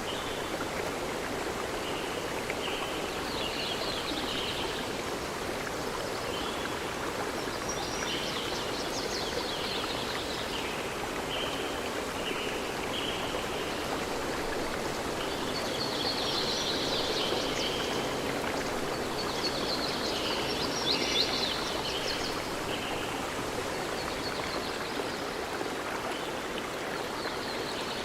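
Stream water running steadily, with bursts of high chirping calls every few seconds.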